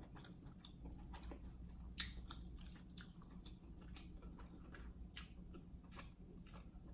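Faint close-miked chewing of seafood boil food, with small wet mouth clicks scattered throughout and a slightly sharper one about two seconds in.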